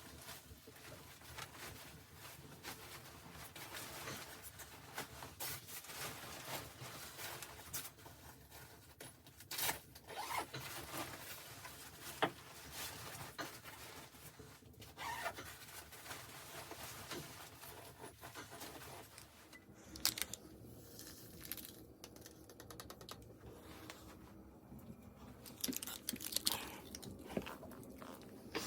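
Close handling sounds: rustling and scraping broken by scattered clicks and crunches.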